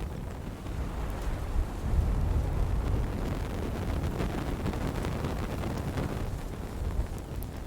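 Wood fire crackling, with scattered sharp ticks and pops over a steady low rumble of swirling wind.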